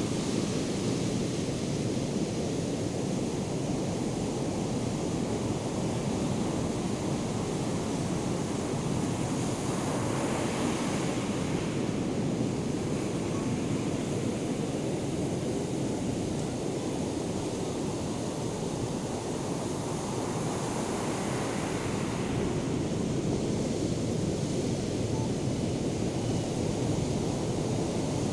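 Ocean surf from hurricane swell: a steady rushing wash of breaking waves, with wind buffeting the microphone. The hiss swells as bigger waves break, about ten seconds in and again past twenty seconds.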